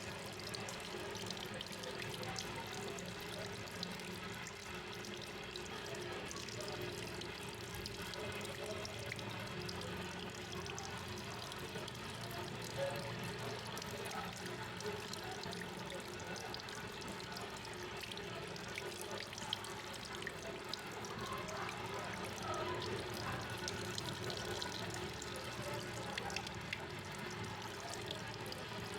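Tap water running steadily into a hair-washing basin.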